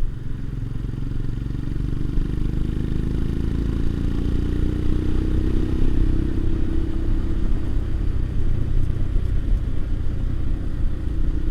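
Motorcycle engine running steadily on the move. About three seconds in, the pitch rises gently as it accelerates, then levels off.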